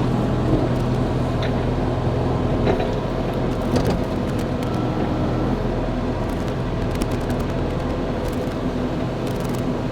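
Excavator's diesel engine running steadily under load while it digs at a stump in brush and roots, with sharp clicks near four, seven and nine seconds in.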